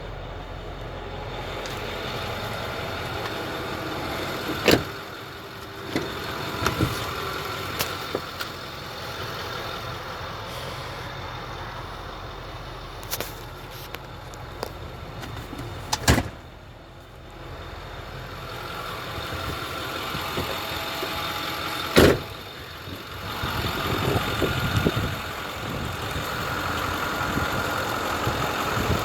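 Ford F-550 Super Duty service truck idling steadily. Several sharp knocks and thumps break in, like doors or compartment lids shutting; the loudest come about five seconds in and again about twenty-two seconds in.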